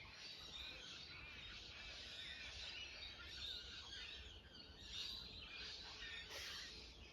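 Faint birdsong: several birds chirping and calling at once, over a low steady rumble.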